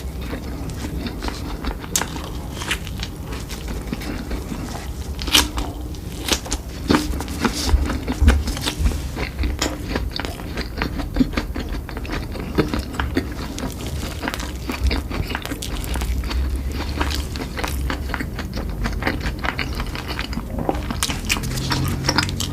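Close-miked eating: a person biting and chewing food, with many irregular sharp clicks and smacks.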